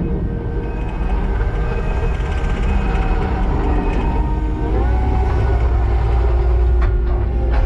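Kubota SVL90-2 track loader's diesel engine running steadily under work, with a deep rumble. About two-thirds of the way through its pitch steps up as it revs higher, and the rumble grows louder.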